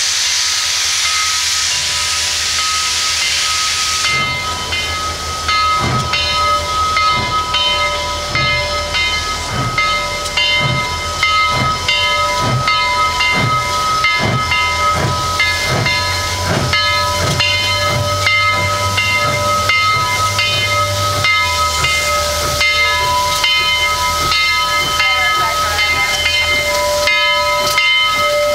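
Southern 4501 2-8-2 steam locomotive pulling out: a loud blow of steam hiss for the first few seconds, then its bell ringing steadily while the exhaust chuffs start as slow, evenly spaced beats that quicken as the engine gets under way.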